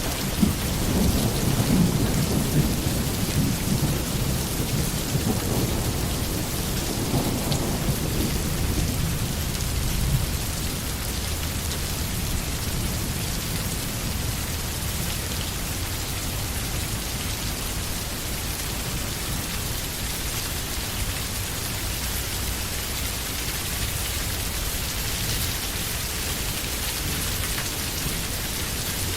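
Steady rain falling, with a low rumble of thunder through the first few seconds that dies away about ten seconds in.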